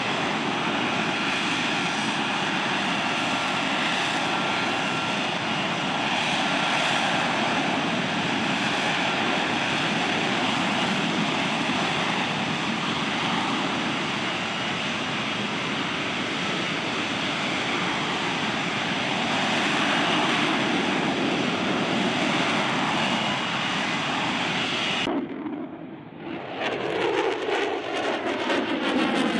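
F-35B Lightning II's F135 jet engine running loud and steady with a faint whine. About 25 seconds in the sound cuts, and the jet comes back with its noise sweeping and phasing in pitch as it moves past.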